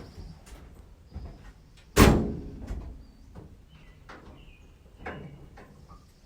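A truck door slams shut once, about two seconds in, among a few lighter knocks and clicks.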